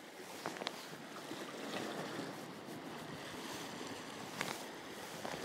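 Sea washing steadily against a rocky shore, with wind. A few sharp clicks come through, two about half a second in and one near the end.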